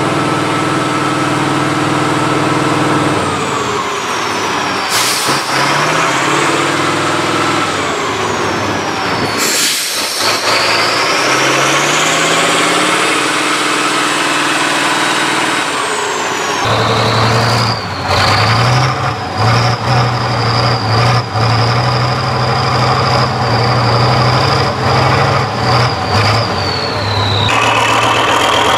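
Tractor diesel engines running and revving under load, their pitch climbing and dropping, with a high whine that rises and falls. There are two short bursts of hiss about five and ten seconds in.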